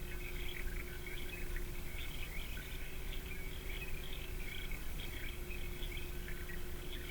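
Small birds calling, a scatter of short high chirps and twitters throughout, over a steady low hum and rumble.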